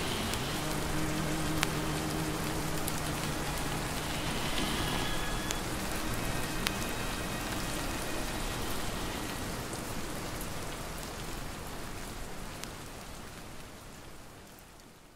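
Steady rain falling, with occasional ticks of drops and faint low tones in the first few seconds. It fades out gradually over the last few seconds.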